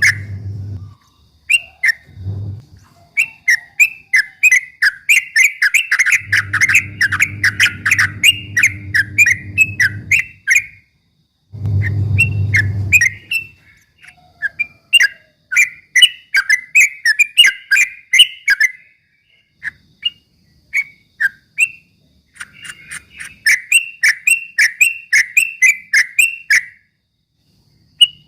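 Yellow-vented bulbul (trucukan) singing in fast runs of short, chirpy whistled notes, the rapid-fire 'ropel' style, with brief pauses between runs. A low hum comes and goes in the background.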